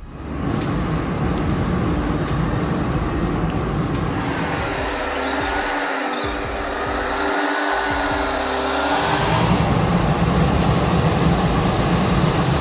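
A heavy vehicle running with a steady engine drone and roar. From about four seconds in, a faint wavering tone rises and falls over it for about five seconds.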